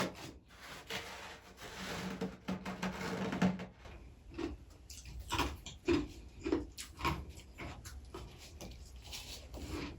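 Freezer frost being scraped in a continuous rasping rub for about three and a half seconds, then a series of separate crunching chews as the frost is eaten.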